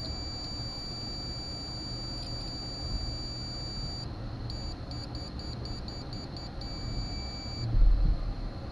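Multimeter continuity beeper giving a steady high beep, then breaking into quick on-off beeps about four a second for a couple of seconds, then steady again before it stops. A dull thump comes near the end.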